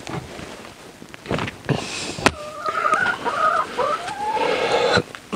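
Domestic hens clucking, with one hen giving a long, wavering call for about two seconds near the middle. A few sharp knocks come in the first half.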